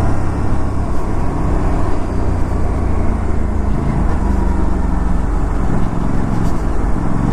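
Aprilia RS 457's parallel-twin engine running at a steady cruise, under an even rush of riding wind and road noise.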